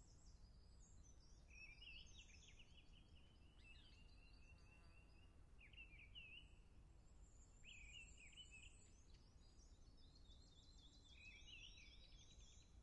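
Faint birdsong: several birds chirping and warbling over a quiet low background hum, with a quick rapid trill near the end.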